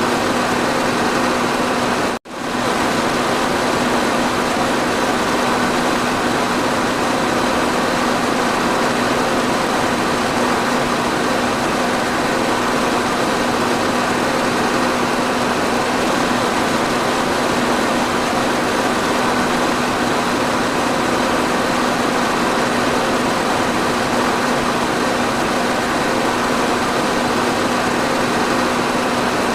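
Electric fan running steadily: an even rushing noise with a steady low hum under it. About two seconds in, the sound cuts out for an instant and comes straight back.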